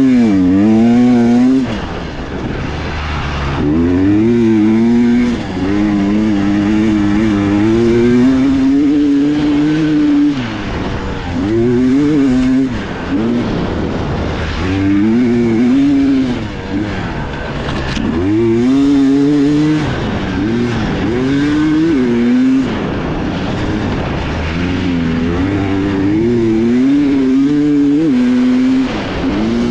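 Dirt bike engine, heard on board, revving up and down as the rider works the throttle and gears on a trail: the pitch climbs and falls over and over, dropping off briefly every few seconds.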